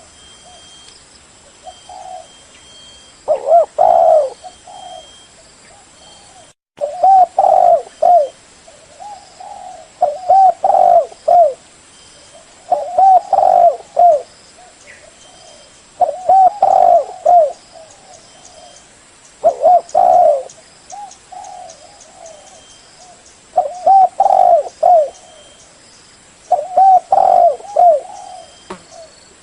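Spotted dove cooing: repeated phrases of several low, hooting coo notes, one phrase about every three seconds.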